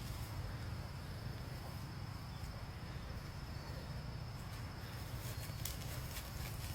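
An insect trilling as one steady high-pitched tone over a low outdoor rumble, with a few sharp clicks near the end.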